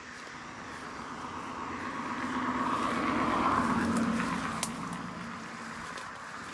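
A vehicle passing by: a steady rushing that swells to a peak about three seconds in, then fades away.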